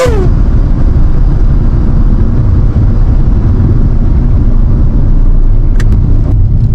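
Stage 2 DME-tuned Mercedes-AMG C63 S twin-turbo V8 running steadily at cruise with a deep, low drone, heard from inside the car's cabin.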